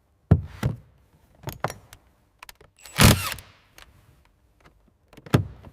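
A series of sharp mechanical clicks and clunks with short gaps between them. The loudest and longest clunk comes about three seconds in.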